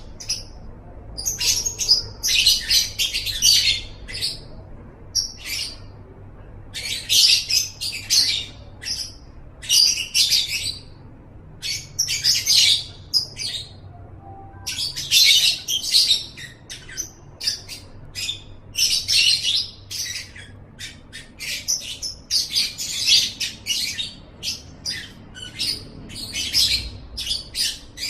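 Lovebird singing: repeated bouts of rapid, high-pitched chattering, each one to two seconds long, with short single chirps in the gaps.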